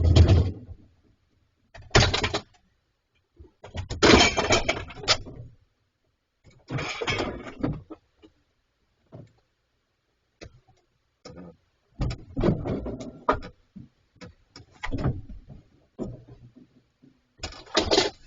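Bears working at a steel fridge: irregular bursts of scraping and knocking, each a second or so long, with sharp clicks between them and short silent gaps.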